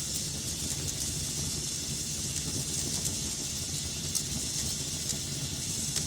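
Wood fire burning in a fireplace: a steady hiss and low rumble of flames with sparse crackles, the sharpest pop about four seconds in.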